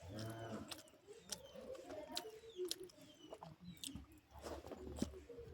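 Close-up eating sounds: chewing with wet mouth clicks and smacks, many short irregular clicks, while small birds chirp faintly in the background.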